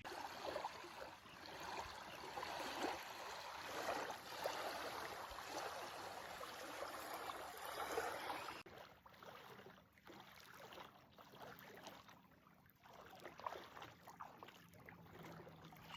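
Lake water lapping and splashing at the shore, a steady rushing wash with small irregular splashes. About halfway through it cuts off abruptly to a much quieter outdoor background with faint scattered ticks.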